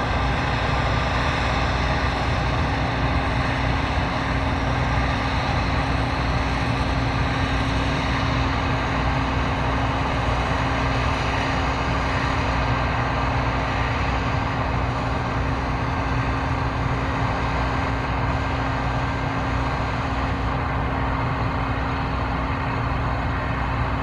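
John Deere 9640i WTS combine harvester running steadily, its engine and threshing machinery giving an even mechanical drone with a low hum.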